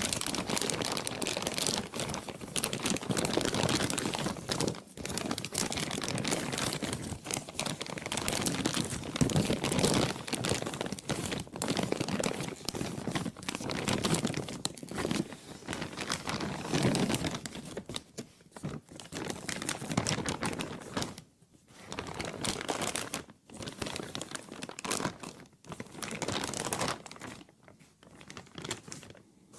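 Plastic being crumpled and crinkled continuously in a dense, crackling rustle, broken by a few brief pauses in the last third.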